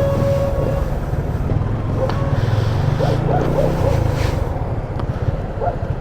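Motorcycle engine idling with a steady low rumble, with faint voices in the background.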